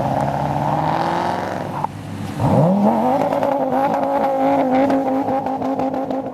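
A car engine revving hard: after a brief drop, the revs climb quickly about two seconds in and hold at a steady high pitch for several seconds, then cut off near the end.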